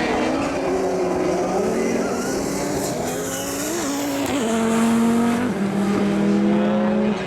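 Rallycross Supercar engines at racing speed, revving up and stepping through gear changes, with more than one engine note heard at once. From about halfway through, one loud engine note holds steady at high revs, then cuts off abruptly just before the end.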